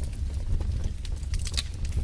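Wood fire burning in a fireplace: a steady low rumble of the flames with irregular sharp crackles and pops, several close together about one and a half seconds in.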